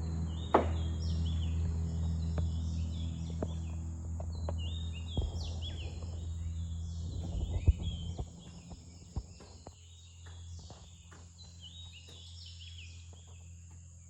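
Many birds chirping with short, repeated calls, over a steady high insect drone. A low steady hum sits underneath and fades out about eight seconds in, and a few scattered clicks and knocks come through.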